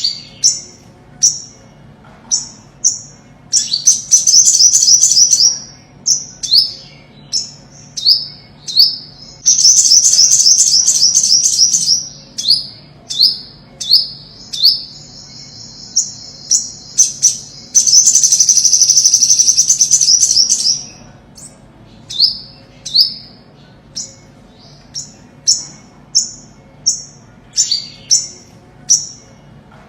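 Ornate (olive-backed) sunbird calling: a run of short, sharp, high notes, one or two a second, broken by three fast twittering trills, the last and longest lasting about five seconds.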